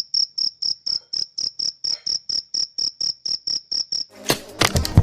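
Cricket stridulating: a steady run of short, high-pitched chirps, about four a second, which stop about four seconds in. Loud electronic music with sharp hits comes in near the end.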